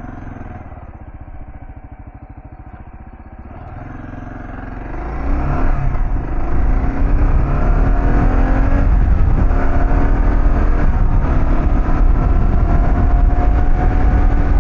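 Kawasaki KLR650's single-cylinder four-stroke engine running at low speed. About five seconds in it accelerates, getting much louder, then runs on steadily under way.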